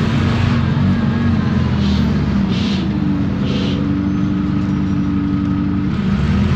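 Isobus City 1200 city bus's MAN D0836 diesel engine and ZF Ecomat automatic drivetrain running under way, with a steady gear whine that rises slightly in pitch midway. Three short hisses come about two to four seconds in, and the engine picks up again near the end.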